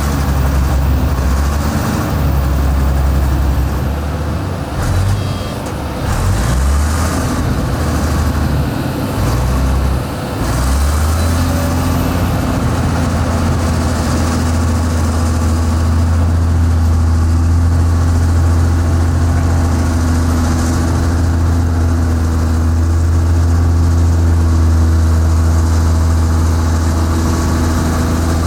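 Heavy construction machine's diesel engine running. It surges and dips unevenly for about the first ten seconds, then settles into a steady, even drone.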